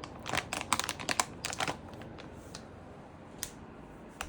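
PC parts and their plastic packaging being handled: a quick run of light clicks and crinkles over the first two seconds, then a few single clicks.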